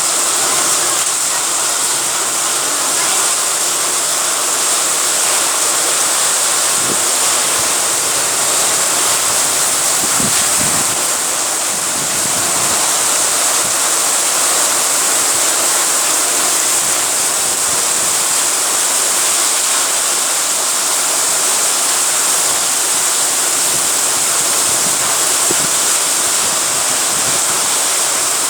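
Heavy rain pouring down steadily, a dense even hiss, with a few brief low rumbles about ten seconds in.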